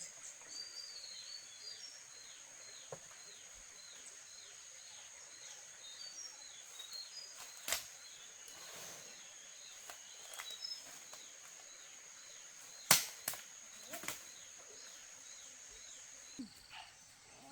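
Forest ambience: a steady high-pitched insect drone with many short bird chirps over it. A few sharp knocks come through, the loudest about 13 seconds in. The drone stops shortly before the end.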